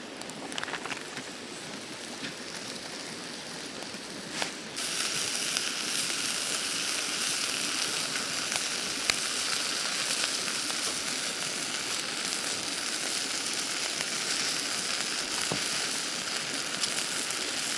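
Food sizzling in a hot pan: a steady frying hiss with small crackles that jumps up suddenly about five seconds in, as food goes into the pan.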